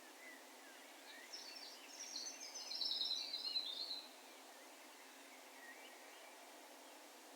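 A songbird singing one rapid, twittering phrase of high notes, starting a little over a second in and ending about four seconds in. A few fainter bird chirps come before and after it, over a faint, steady background hiss.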